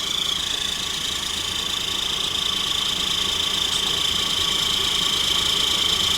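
Road vehicle engines idling steadily, slowly growing louder, with a steady high-pitched tone running throughout.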